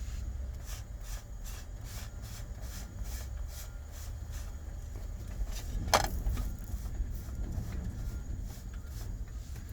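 Low steady rumble of a vehicle engine, with a rapid, regular high ticking over it and one sharp click about six seconds in.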